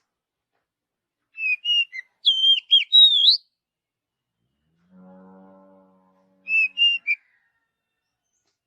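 Oriental magpie-robin (kacer) singing: a phrase of clear, rising and falling whistled notes about a second in, and a shorter whistled phrase near the end. A faint low steady tone sounds briefly in between.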